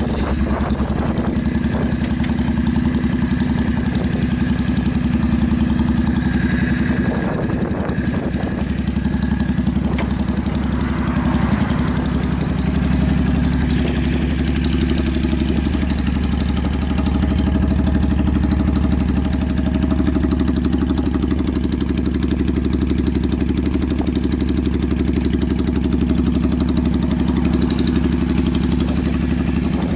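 Yamaha Drag Star 400's air-cooled V-twin idling steadily through its custom short trumpet intakes and twin exhausts, with no abnormal noise as the seller describes it.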